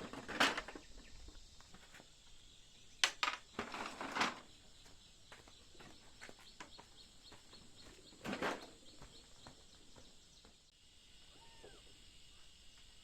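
Quiet outdoor background with faint bird calls and a steady high hiss, broken by a few short noisy rustles or knocks near the start, around three to four seconds in, and around eight seconds in.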